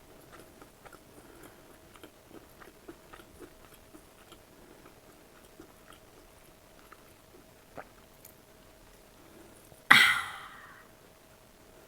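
Close-miked eating: soft chewing with many small, wet mouth clicks, then one loud crunchy bite about ten seconds in that fades over about a second. A faint steady hum sits under it all.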